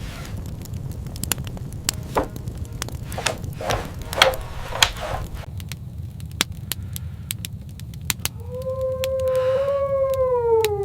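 Scattered sharp crackles over a low rumble. About eight seconds in, a wolf begins one long howl that slowly falls in pitch near the end.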